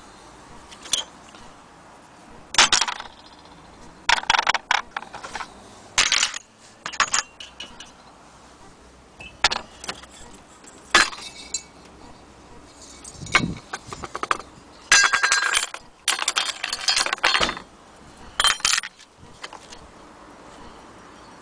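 Metal parts of a vintage brass Primus camping stove clinking and rattling as they are handled, in irregular sharp clinks with a longer rattle about two-thirds of the way through.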